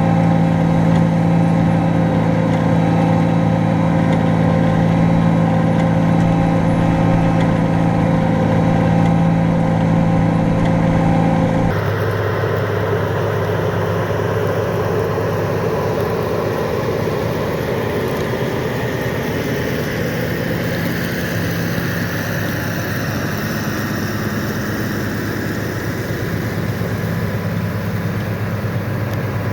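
Large diesel farm tractor engine running steadily under load while pulling a plow. About twelve seconds in the sound changes abruptly to a different, lower engine note with more rumble and noise.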